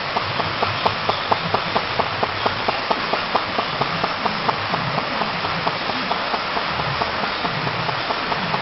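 Böhm HB22 flame-eater (vacuum) model engine running at a steady speed, its valve and piston giving an even ticking of about four clicks a second over a steady hiss.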